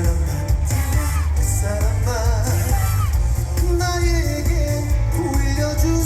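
Korean trot song performed live: a male singer sings a melody over band accompaniment with a heavy, steady bass beat.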